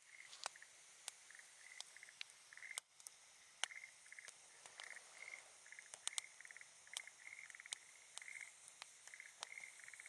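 Faint wood campfire crackling with scattered sharp pops, while a frog calls over and over in short, rapidly pulsed trills.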